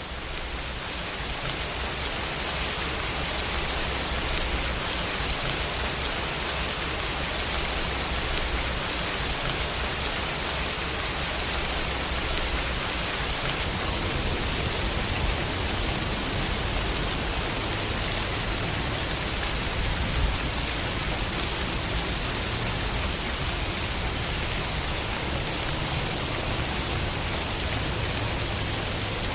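Steady rain falling, an even dense hiss of drops, fading in over the first couple of seconds and then holding level.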